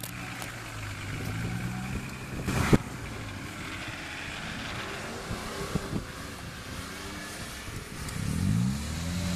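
Off-road 4x4 engines running, with one sharp knock about two and a half seconds in, the loudest moment. Near the end an engine revs up, its pitch rising.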